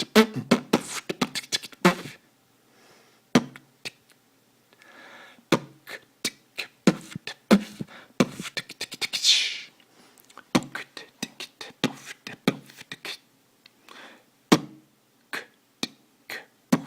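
Beatboxing: a fast, dense run of mouth-made drum sounds for the first two seconds, then slower, spaced-out single kick- and snare-like strikes, with a hissing cymbal-like sound lasting about a second roughly nine seconds in.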